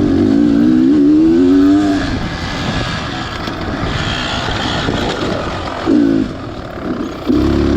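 Beta Xtrainer 300 two-stroke dirt bike engine being ridden, the throttle rising and falling, strongest in the first two seconds. Shorter bursts of throttle come near the end.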